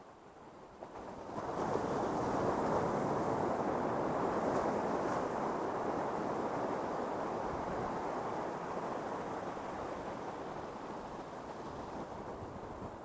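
Ocean surf on a beach: a wave breaks about a second and a half in, and its wash then fades slowly over the following seconds.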